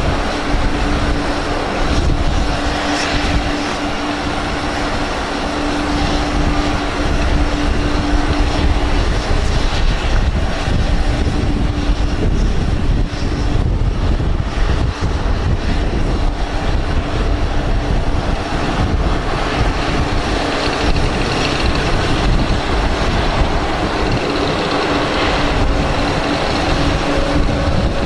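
Steady noise of a Boeing 767-300ER jet airliner and its tug during pushback, with a constant hum and a deep wind rumble on the microphone.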